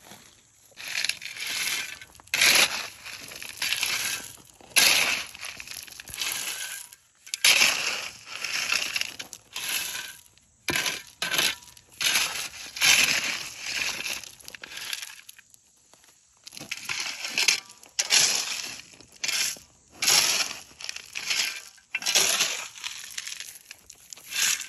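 Loose gravel and broken asphalt being raked and scraped out of a patch hole: repeated rough, crunching strokes, roughly one a second, with short pauses between.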